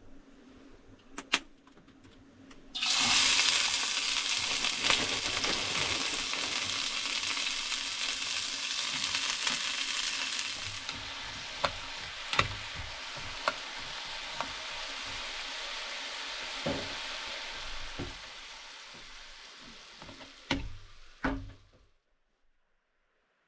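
Food sizzling in a hot pan, starting suddenly a few seconds in as it goes into the pan, loud at first and then settling to a softer sizzle, with occasional sharp clicks of a utensil against the pan.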